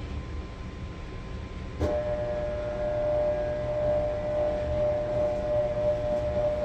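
Maytag Bravos top-load washer running with a low rumble; about two seconds in, a click, and a steady motor whine starts and holds.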